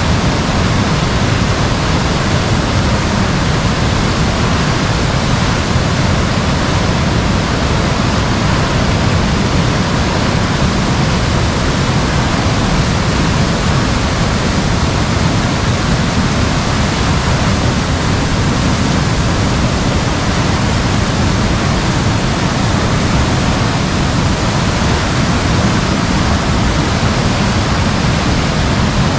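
Heavy rain falling on an umbrella: a loud, steady hiss with no let-up.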